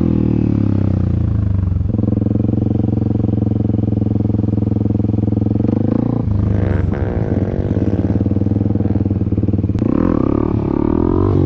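Dirt bike engine running at steady revs, its pitch falling and climbing again about six seconds in and once more near the end.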